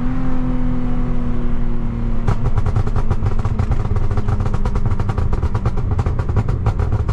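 Lexus IS250's tuned V6 running steady for about two seconds, then a rapid run of exhaust pops and crackles on overrun from the ECU tune's pops-and-bangs map.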